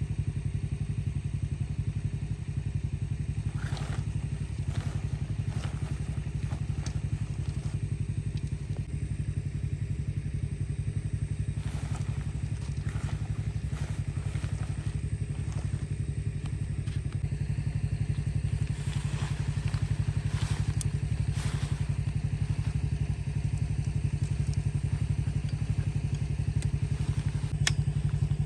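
An engine running steadily with a constant low rumble, with a few faint clicks and knocks over it.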